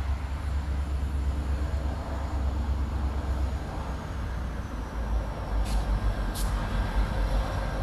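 Diesel freight train running, a steady low engine rumble. Two brief high-pitched sounds come close together near the end.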